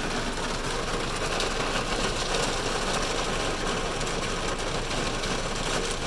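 Heavy rain falling steadily on a car's roof and glass, heard from inside the car as a dense, unbroken patter of drops.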